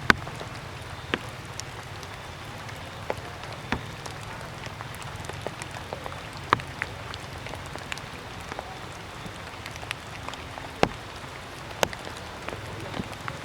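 Leftover raindrops dripping after rain, landing in sharp, irregular taps over a steady low background noise.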